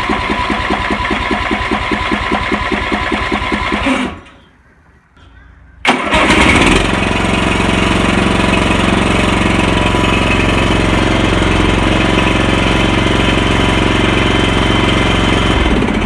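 Briggs & Stratton 15.5 HP riding-mower engine being cranked over by its newly replaced starter for about four seconds, then stopping. About six seconds in it is cranked again, catches and runs steadily: the new starter and flywheel ring gear engage and the engine starts.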